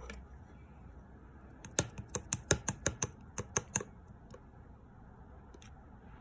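A quick, uneven run of about a dozen sharp clicks over two seconds, then two single clicks, over a faint steady background.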